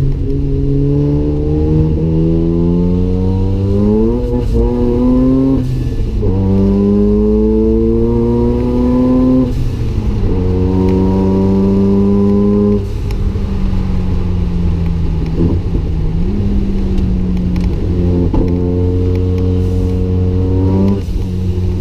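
Mazda RX-7's single-turbo rotary engine accelerating hard through the gears, its pitch climbing and falling back at each upshift several times. Later it holds steadier at lower revs for a few seconds before climbing once more and dropping near the end.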